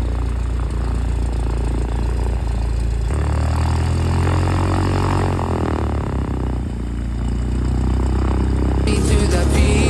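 Light aircraft's engine and propeller running steadily with a low drone, the sound changing abruptly about three seconds in. Electronic music comes in near the end.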